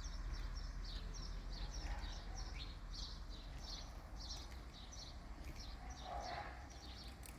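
Small birds chirping in the background, a steady run of short, high chirps two or three a second, over a low steady outdoor hum.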